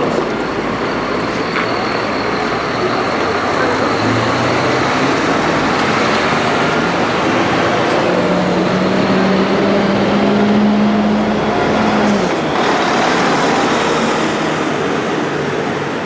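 Scania bus running amid road traffic noise, with a steady low engine hum for about four seconds in the middle.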